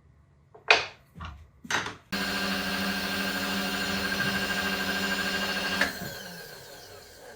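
Three short noisy bursts, then a milling machine's spindle motor starts abruptly, runs with a steady hum for about four seconds, and is switched off, winding down in falling pitch near the end.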